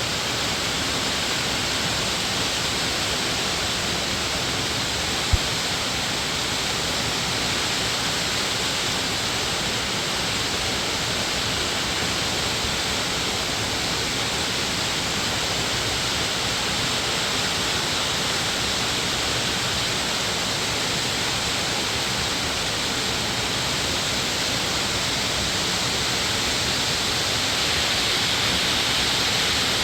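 Steady hiss of rushing water in a rocky valley stream, with a single sharp click about five seconds in.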